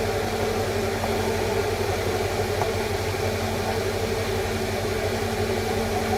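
Steady background hum and noise, like a fan or running machine, unchanging throughout.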